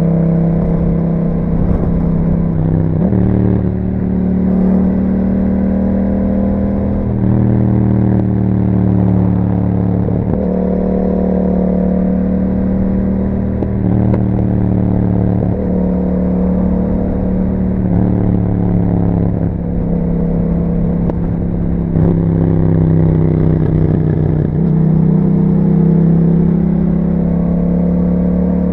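Yamaha MT-07's parallel-twin engine running through an Akrapovic exhaust while riding. Its pitch rises and drops several times as the rider rolls on and off the throttle and changes gear.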